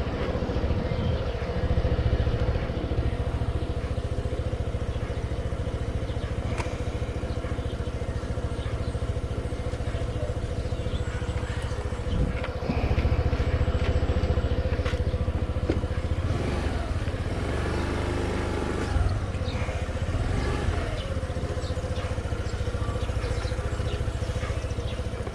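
A vehicle engine running steadily over a low rumble, with a few slight rises and falls in pitch in the latter half.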